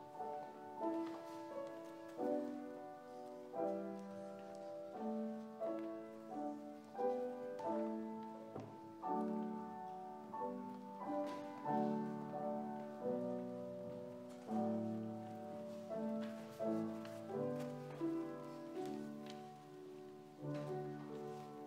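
Piano playing slow, chordal music, with a new chord or note struck about every second and left to ring and fade.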